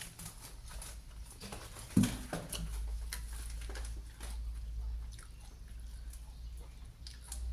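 A person chewing and biting food close to the microphone, with many small wet clicks and crunches and one louder knock about two seconds in.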